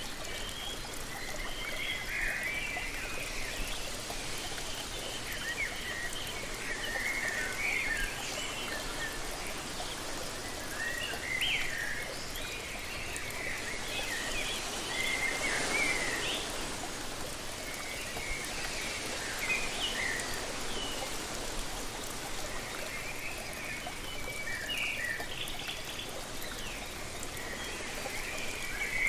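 Steady rush of a waterfall, with birds chirping in short scattered calls throughout. The rushing noise swells briefly about halfway through.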